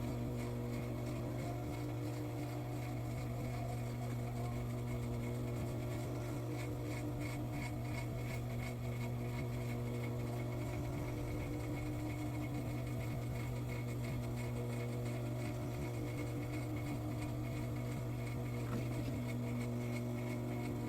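Steady, unchanging low electrical hum with fainter steady tones above it.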